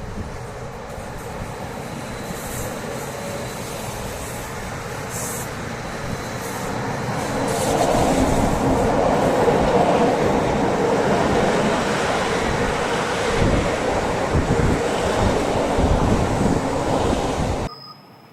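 A Bernina Railway electric train running along the track with a steady rumble of wheels on rail. It grows louder about eight seconds in as the train comes close, then cuts off suddenly near the end.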